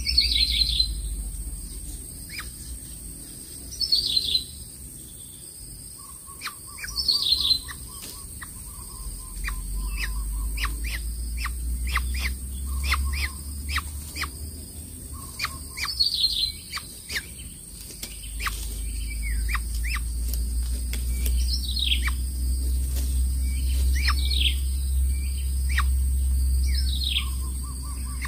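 Bird calls: a high, sharply falling whistled note repeated every few seconds, with many short chirps between them and a low rumble underneath.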